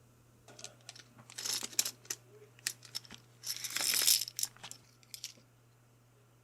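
Small keyboard parts and their packaging handled on a desk: a run of sharp light clicks with two longer rustling bursts, the louder one about three and a half seconds in.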